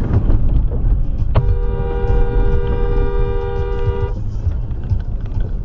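Car horn blaring in one steady two-note blast for nearly three seconds, starting about a second in and cutting off sharply, over constant road and engine rumble.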